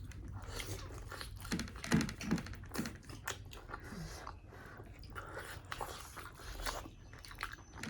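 Close-up eating sounds: a person chewing food with many small, wet mouth clicks.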